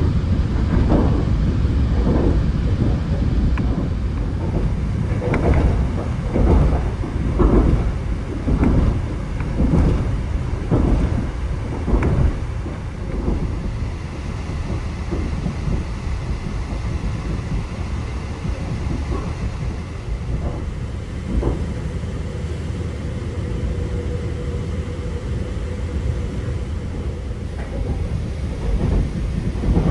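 Caledonian Sleeper Mark 5 coach running along the line, heard from inside: a deep, steady rumble with regular knocks of the wheels on the track, a little more than one a second, through the first half, then a smoother rumble.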